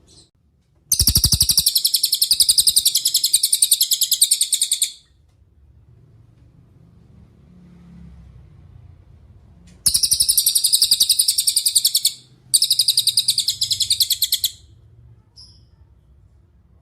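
Cililin (velvet-fronted nuthatch) singing three long, very rapid high trills: one of about four seconds, then after a pause two of about two seconds each in quick succession. A brief low rumble sounds at the start of the first trill.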